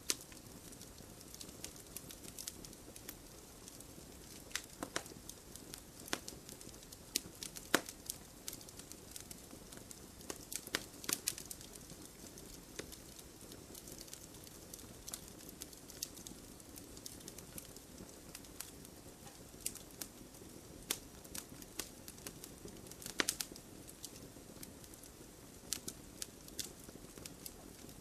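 Wood campfire crackling, with irregular sharp pops over a low steady hiss.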